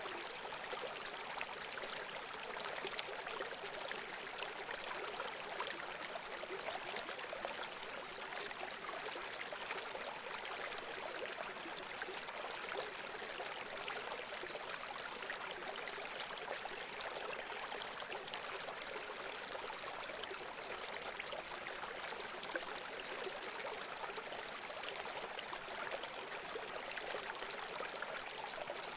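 Running water from a small stream flowing steadily, an even sound with little low rumble.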